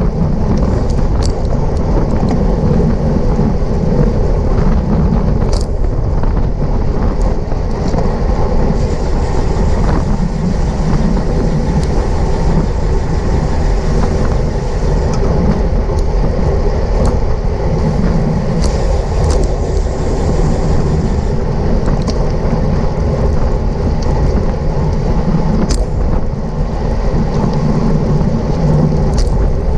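Wind rushing and buffeting over a bike-mounted or helmet camera's microphone while riding at race speed in a bunch of cyclists, with a few sharp clicks now and then.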